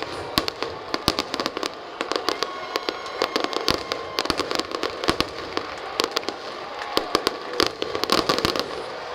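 Fireworks display: a dense, irregular run of many sharp crackling pops, several a second throughout.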